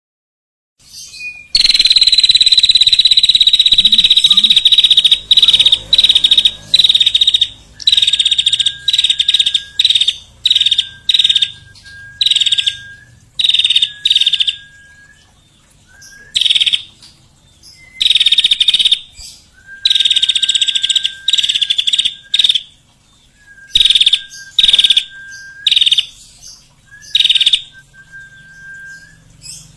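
Bird calls: a harsh, buzzy call held for about three seconds, then a long series of short, loud, harsh calls at irregular gaps. Many of them are followed by a brief, steady, lower whistle.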